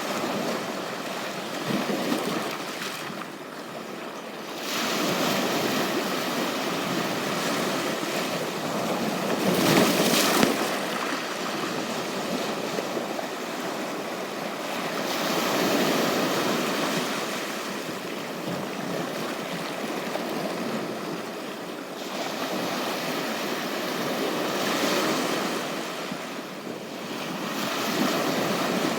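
Ocean waves breaking and washing on a beach, swelling and ebbing every few seconds, the loudest wave about ten seconds in.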